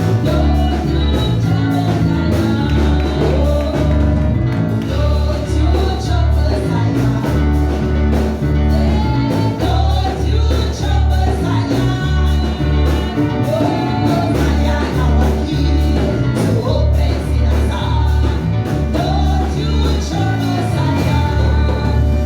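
Gospel music with a band and singing, over a steady pulsing bass beat.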